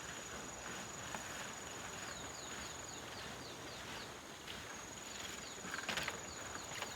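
Outdoor rural ambience: a steady high-pitched insect drone, with a bird calling a quick run of short falling notes for a few seconds in the middle. There is a sharp knock near the end.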